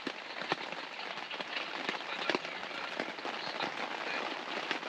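Rain pattering steadily on a tent: a dense, even patter of drops, with a few sharper taps standing out about half a second and two seconds in.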